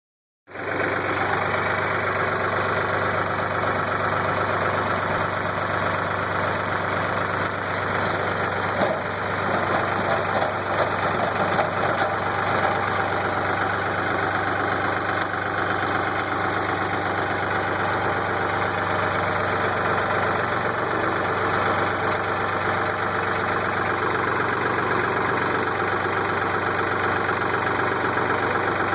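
New Holland tractor engine running steadily, a little louder and rougher for a few seconds about a third of the way in.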